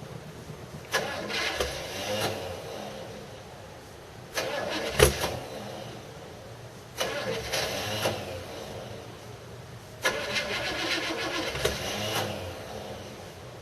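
Engine of a 1979 Chevrolet Caprice during a cold start after two years laid up, heard in four surges about every three seconds. Each surge starts abruptly and dies down over a second or two, with a fainter low engine sound between them.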